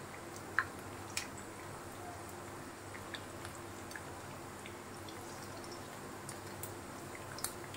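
Beef kababs shallow-frying in oil over medium heat, a steady low sizzle with scattered sharp pops and crackles.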